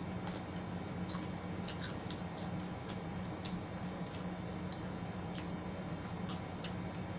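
Close-up eating sounds: irregular short clicks and wet smacks of chewing and biting, over a steady low hum.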